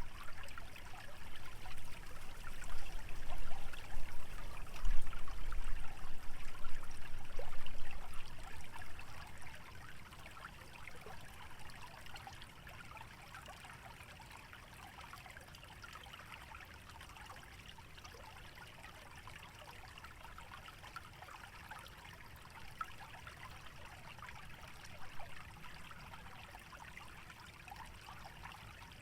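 Shallow stream trickling and gurgling steadily over the wetland bed. For the first ten seconds or so a gust of wind adds a low rumble on the microphone, then dies away, leaving the trickle alone.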